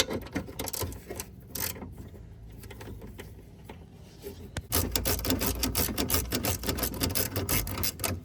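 Socket ratchet clicking as a bolt is backed out of the power-steering hardware: scattered clicks and metal knocks at first, then a rapid, steady run of ratchet clicks for the last three seconds or so, stopping just before the end.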